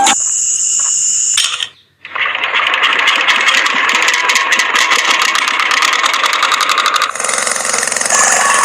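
A small motor running with a fast, dense rattle. It breaks off briefly just before two seconds in, starts again, and its sound changes about seven seconds in.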